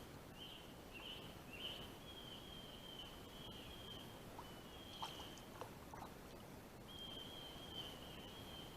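Faint, high-pitched, steady trill of an insect, dropping out for a moment between about six and seven seconds. A few soft clicks come about five seconds in.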